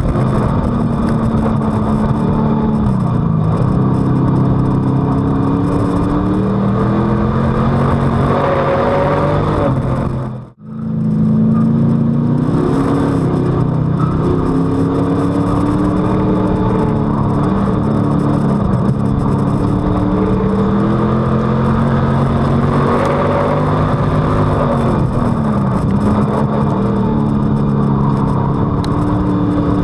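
In-car sound of a WISSOTA street stock's V8 engine at racing speed on a dirt oval, its pitch rising on the straights and falling into the turns every four to five seconds. The sound drops out for a moment about ten seconds in.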